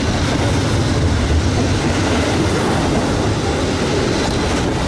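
CSX double-stack intermodal freight train's well cars rolling past close by: a steady, loud noise of steel wheels running on the rails.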